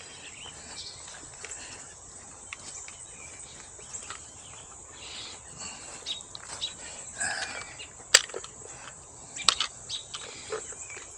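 Outdoor morning ambience: insects droning steadily at a high pitch, with scattered bird chirps. A few sharp clicks, the loudest about eight seconds in.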